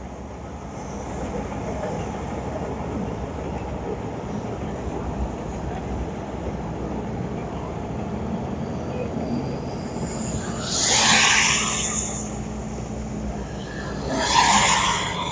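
A heavy engine running steadily, with two loud bursts of hissing, about ten seconds in and again near the end.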